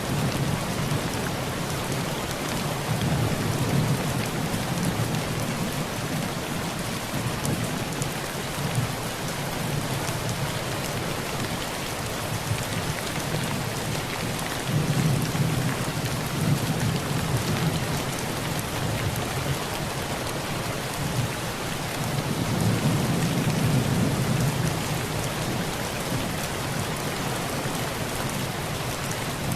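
Heavy rain falling steadily on a tin roof, a continuous hiss, with low rolls of thunder swelling and fading three times.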